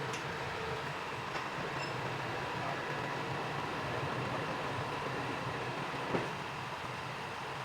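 Steady machinery noise with a faint hum, a light click right at the start and one sharp knock about six seconds in.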